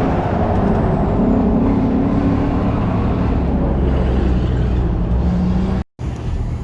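A pickup truck's engine running steadily and loud, mostly deep low tones. The sound drops out completely for a split second near the end, then resumes a little quieter.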